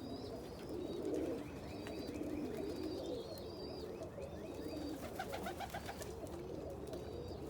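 Domestic pigeons cooing in a loft, several birds overlapping continuously, with thin high chirps and a few faint clicks above.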